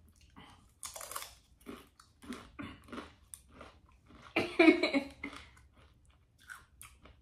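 Someone chewing crunchy chips close to the microphone: irregular crunches, with a louder burst of crunching about four and a half seconds in.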